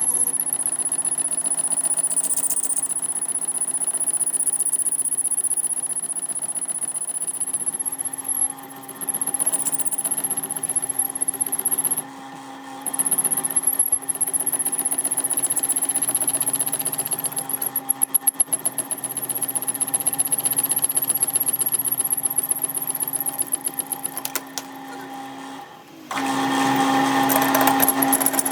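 Workshop machinery running: a steady motor hum with a high whine and a fast pulsing rattle, broken by several abrupt cuts. A louder, fuller machine noise starts about two seconds before the end.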